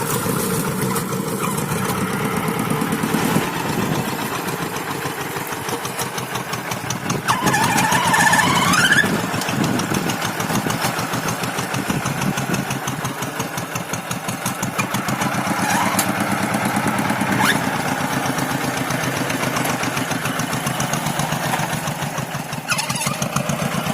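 Tractor engine running steadily with a fast, even chug, with a brief louder swell about seven to nine seconds in.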